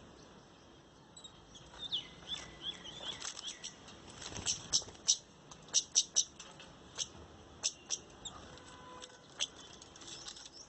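Birds chirping: short, sharp, high notes at irregular intervals, densest and loudest in a quick run about halfway through.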